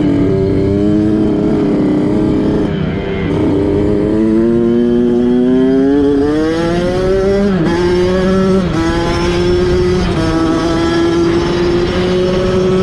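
Kawasaki dirt bike engine running: it holds steady, then revs up with pitch climbing for a few seconds, dips briefly about two thirds of the way through and settles to a steady note.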